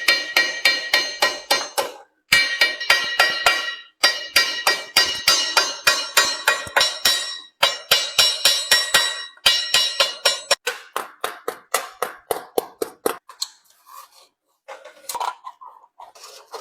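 Rapid hammer blows on sheet metal with a ringing metallic tone, about four to five a second, in runs broken by short pauses. The blows become sparser and softer over the last few seconds.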